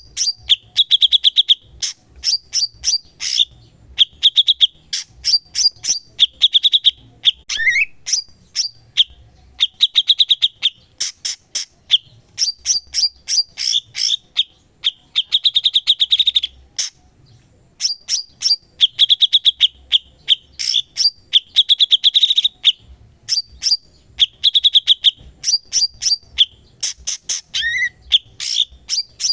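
Cucak cungkok songbird singing vigorously and continuously: fast trilled rattles alternating with sharp, high, rapid notes, with an occasional lower slurred note, in repeated phrases broken by a short pause a little past the middle.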